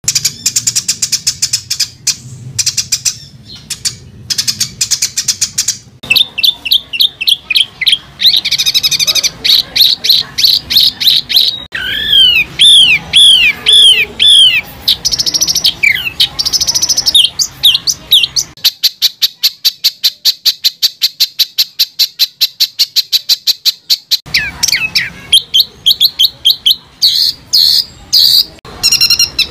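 Songbird singing fast, harsh, closely packed repeated notes, the rapid 'tembakan' phrases valued in Indonesian songbird contests. The high-pitched phrases change every few seconds, with a run of very fast, even chatter for about six seconds in the middle.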